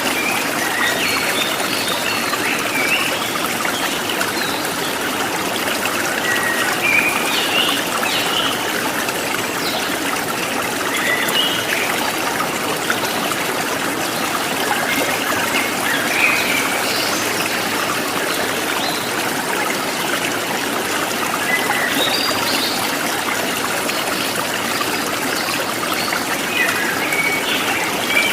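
A stream running over stones, trickling steadily, with small songbirds chirping and warbling now and then over it.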